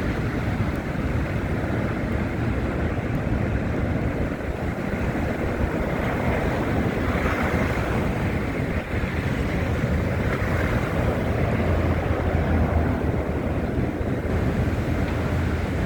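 Steady rushing noise of wind on a phone's microphone, over the low rumble of city traffic, which grows heavier about two-thirds of the way in.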